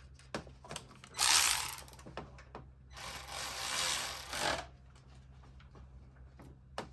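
Two bursts of a power tool running while the new ignition coil is fitted, a short one about a second in and a longer one of about a second and a half near the middle, with small clicks of hand work between.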